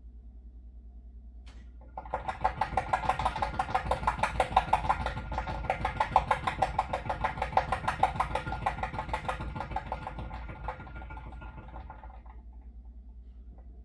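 Water heater pipe chattering: a fast, even rattle that starts suddenly about two seconds in, runs for about ten seconds, eases off and stops.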